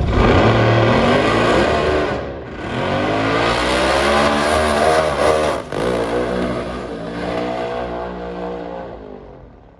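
A truck engine at full throttle making a fast speed pass. Its pitch climbs through each gear and breaks twice, about two and five and a half seconds in, then fades as the truck pulls away.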